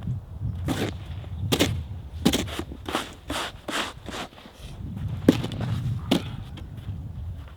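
Footsteps in snow: a series of short crunching steps, roughly one a second, with a pause a little past the middle, over a steady low rumble.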